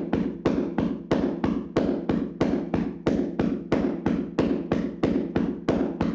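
Hands slapping and patting a person's body in a vigorous tapping massage: a quick, even run of sharp slaps, a few each second.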